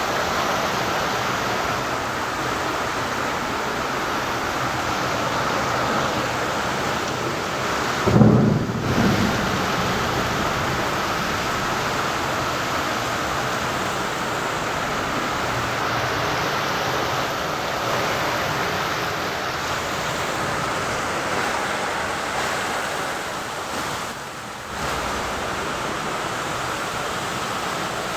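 Heavy rain pouring down in a steady hiss. About eight seconds in, a brief low rumble rises over it.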